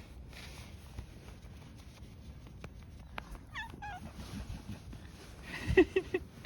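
A cat meowing: two short falling meows about three and a half seconds in, then a quick run of chirping, trilling calls near the end, with a few light knocks between.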